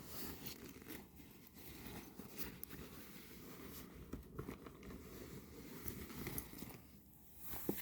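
Rustling and handling noises of gear being moved around, with scattered light clicks and a sharper knock near the end.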